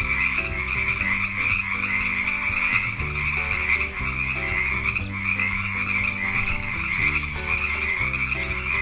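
Frog croaking continuously with rapid, dense calls, over soft background music.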